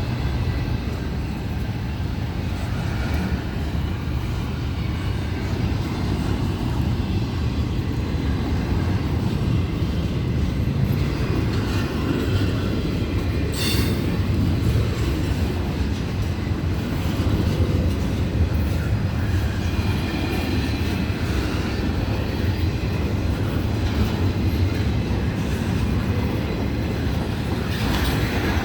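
Florida East Coast Railway train rolling past with a steady rumble of wheels on rail, and one sharp click about halfway through.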